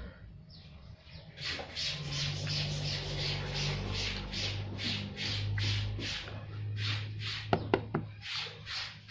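Close-miked chewing of a mouthful of food, wet mouth smacks repeating about three times a second, with a few sharp clicks near the end.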